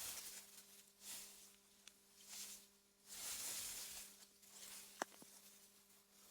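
Soft wind through meadow grass, a faint hiss that swells and fades in several gusts over a faint steady hum. A single sharp tick comes about five seconds in.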